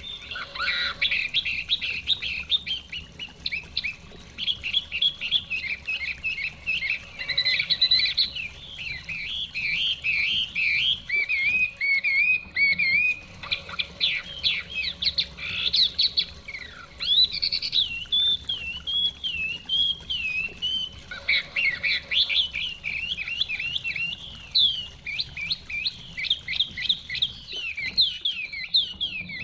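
Chinese hwamei singing a long, fast, varied song of whistled and chattering phrases, broken by a few short pauses.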